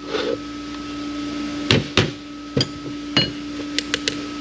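Sharp metal knocks and clinks of hand tools on a Ford AOD transmission's intermediate drum and its snap-ring retainer. About four louder knocks come between roughly a second and a half and three seconds in, then a few lighter ticks near the end, over a steady background hum.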